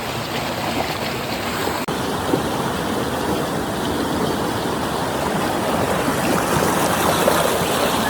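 Flowing water running steadily, with a brief dropout about two seconds in.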